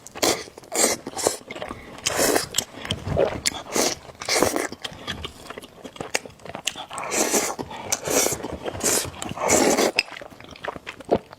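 A person eating spicy noodles close to the microphone: a run of short, irregular slurps and chewing sounds.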